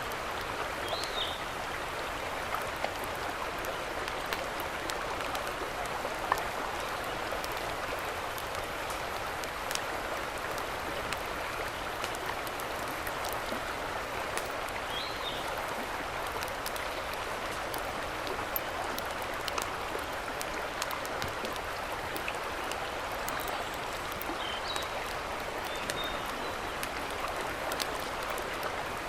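Steady rushing of a mountain stream, with scattered faint clicks and a few short high chirps: about a second in, around the middle, and twice near the end.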